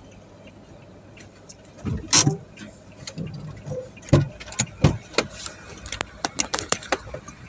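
A run of sharp clicks and knocks, about a dozen, starting with a louder knock about two seconds in and coming faster from about four seconds on.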